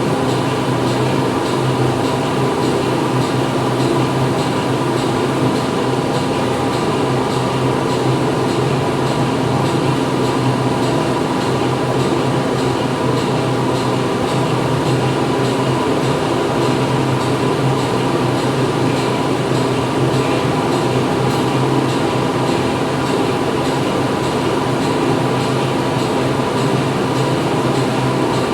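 Factory floor ambience: machinery running steadily, a dense even hum with several held tones under a broad mechanical din.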